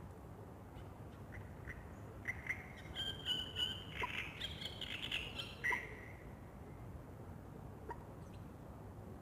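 Birds calling: a cluster of short calls bunched between about two and six seconds in, over a steady low background hum.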